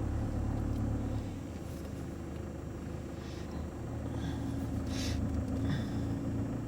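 Car engine running, heard from inside the cabin: a steady low rumble with a faint hum over it, and a few brief short noises, the clearest about five seconds in.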